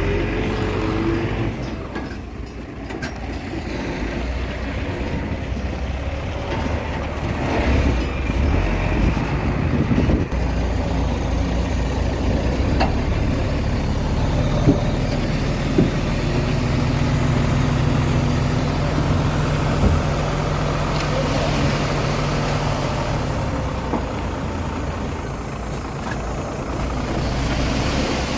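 Komatsu D21A mini bulldozer's diesel engine running under varying load as it works, its note shifting, with a few sharp knocks about halfway through.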